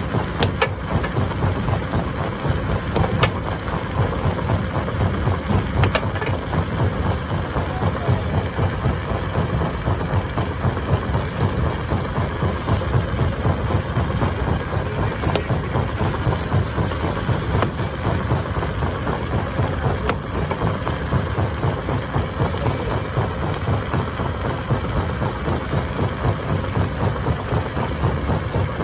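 Stone crusher machine running under load with a steady, rapidly pulsing low rumble, with a few sharp cracks now and then.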